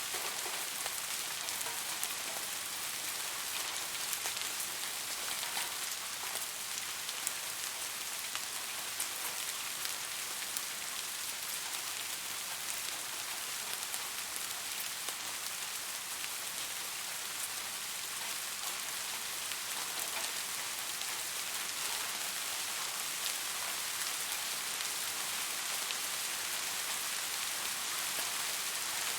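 Steady summer rain falling, an even hiss dotted with many separate drop ticks, with no change in strength.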